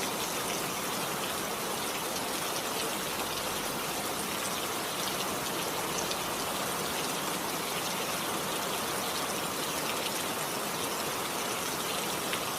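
Steady rain falling, a continuous hiss with a dense patter of drops.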